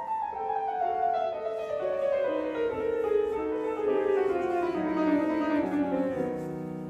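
Piano playing the introduction to an operetta song: a gradual descending passage of notes that falls steadily in pitch over several seconds.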